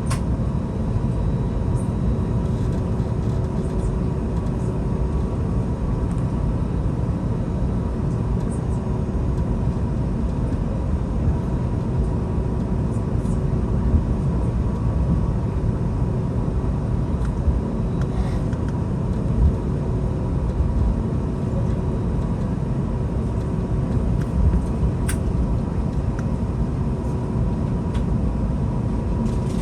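Steady cabin noise inside an Airbus A321neo taxiing: a constant low rumble from the idling engines and the rolling airframe, with a faint steady hum and a few light clicks.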